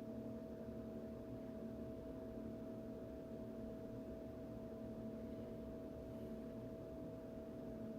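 A steady hum of several held tones, the highest the strongest, unchanging throughout, with no other sound.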